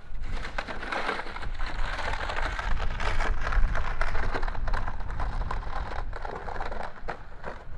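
Wind buffeting the microphone as a steady deep rumble, with a dense crackling patter over it.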